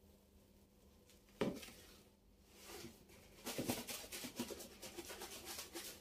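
Kitchen items being handled: a single knock about a second and a half in, then a busy stretch of rustling and small clicks.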